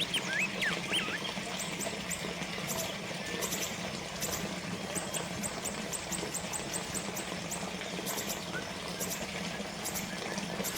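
Steady trickling and splashing of a small water fountain, with birds chirping over it: a few sweeping whistled notes in the first second and a fast run of high, thin ticks around the middle.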